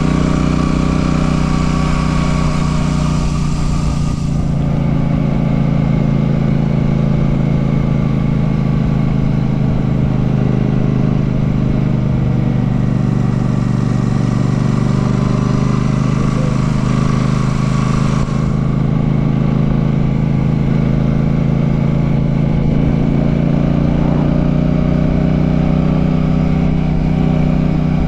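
Royal Enfield Classic 650's parallel-twin engine running steadily while under way, its note holding at a fairly even pitch. A rushing haze over the engine fades about four seconds in, returns, and fades again later.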